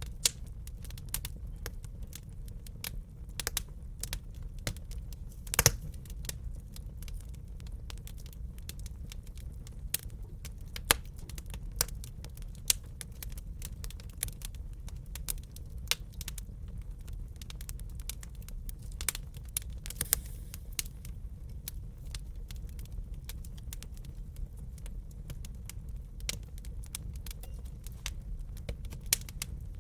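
Wood fire crackling in a fireplace: irregular sharp pops and snaps over a steady low rumble of burning, with a louder pop about six seconds in.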